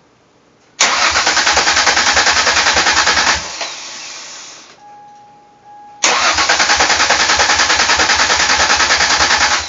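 Starter cranking a swapped-in Ford 3.0 L V6 in a 1999 Mercury Cougar, twice, each time for about three seconds of steady pulsing cranking. The engine cranks but never fires, a no-start after the engine swap and newly wired fuel injectors.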